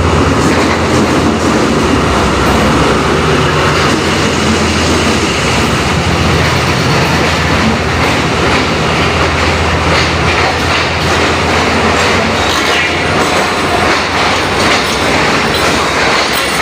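Passenger coaches of a diesel-hauled express train rolling past along the platform, with a steady loud rumble and wheels clattering over rail joints.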